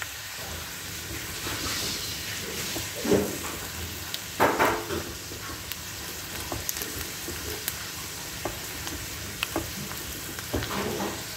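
Chana dal (split Bengal gram) sizzling in hot oil in a kadhai, stirred with a spatula, with several louder scrapes and small clicks of lentils against the pan over a steady hiss. The dal is being fried until crisp and golden brown.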